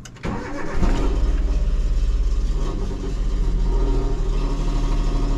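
Suzuki Alto kei car's 660cc three-cylinder engine starting up and then running loudly, with a low, evenly pulsing exhaust note. The exhaust sound is described as awful.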